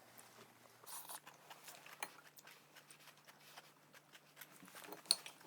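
Faint, scattered crunches and mouth clicks of someone chewing a pickle.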